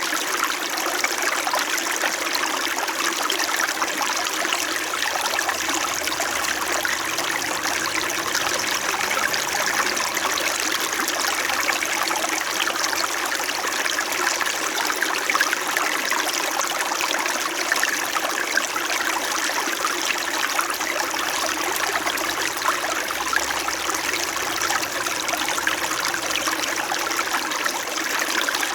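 Small mountain stream flowing steadily over stones, a continuous babbling trickle.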